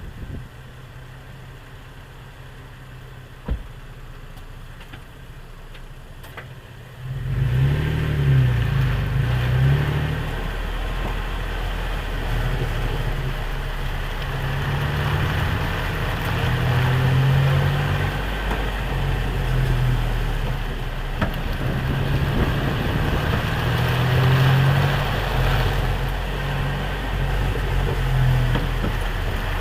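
A leaf-sprung vehicle is heard with a steady low engine hum and a sharp click about three and a half seconds in. From about seven seconds it pulls away and runs at a steady, louder level, with occasional clicks. The clicks come from the leaf spring, which the uploader suspects is caused by U-bolts that are not fully tightened.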